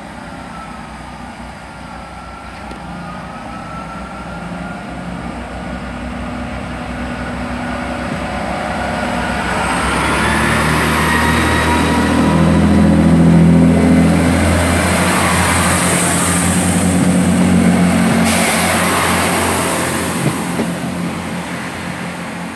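A diesel train passing through the station: the engine note and the noise of its wheels on the rails build gradually to a peak about halfway through, then fade away. A thin high whine rises near the middle.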